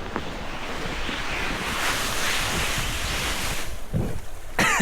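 A person sliding down a steep snow-covered slope, clothing and body scraping through the snow in a rushing hiss that builds over the first couple of seconds and stops suddenly a little under four seconds in.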